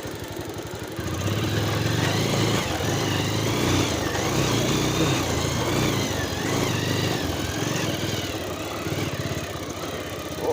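Motorcycle engine running, getting louder about a second in, with the revs rising and falling.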